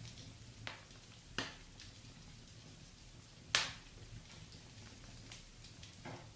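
Fireplace fire crackling, with a handful of sharp pops; the loudest comes about three and a half seconds in.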